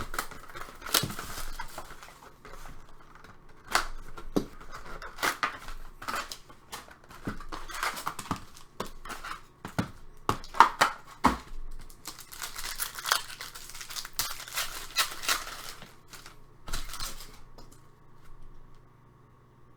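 Upper Deck Ice hockey card pack wrappers being torn open and crinkled, and the cards handled: a run of short tearing and crackling sounds with sharp clicks, dying down near the end.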